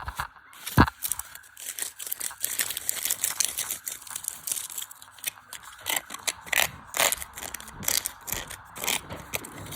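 Tumble dryer being shaken apart while a washing machine motor spins it fast: rapid, irregular clattering and banging of loose parts, with crunching and rattling.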